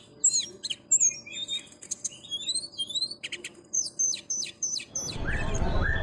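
A songbird chirping in quick, high notes and short rising whistles. About five seconds in, a noisy outdoor crowd background comes in.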